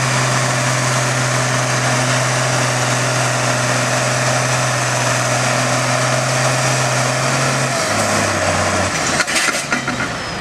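International 806 tractor engine running hard and steady under load while pulling the sled. Near the end its pitch drops as it bogs down, then a few sharp knocks follow and the engine goes quieter.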